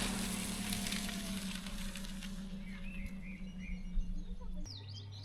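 Small birds chirping over a steady low hum that fades away; near the end the hum drops to a lower tone.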